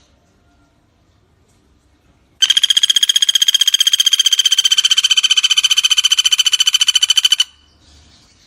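Common flameback woodpecker (pelatuk bawang) giving one loud, rapid rattling trill of about eleven high notes a second, starting about two and a half seconds in and lasting about five seconds before stopping abruptly.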